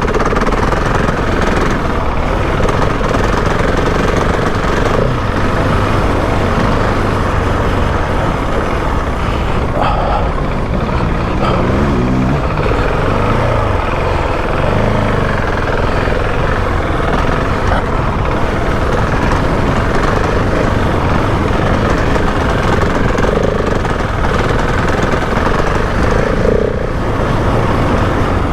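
Husqvarna 701 Enduro's single-cylinder four-stroke engine running under load while ridden around a motocross track, the revs rising and falling.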